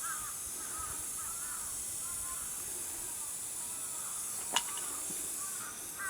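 A bird calling repeatedly in short arched calls, over a steady high hiss, with one sharp click about four and a half seconds in.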